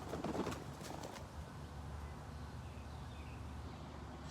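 Chickens in a yard: a short burst of rustling and clicking in the first second, then a few faint chirps over a steady low rumble.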